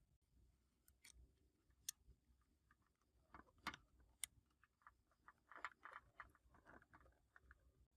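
Faint clicks and small taps of small parts or tools being handled during hands-on repair work. There are a few isolated sharp clicks at first, then a denser run of them through the second half.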